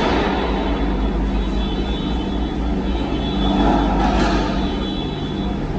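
Car engines running with a steady low rumble, swelling louder about four seconds in as a car passes close by.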